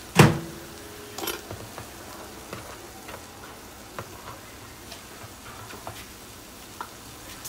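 Chicken pieces frying in a wok: a steady sizzle with scattered small pops and ticks. A sharp knock just after the start, the loudest sound, and a softer one about a second later.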